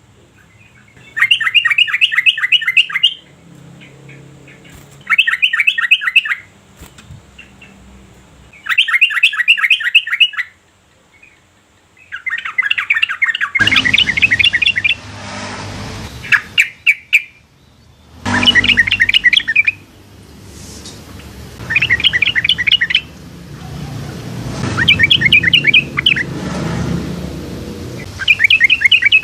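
Yellow-vented bulbul singing its bubbly chattering song, phrase after phrase of rapid notes about every three seconds. A rushing background noise comes in about halfway.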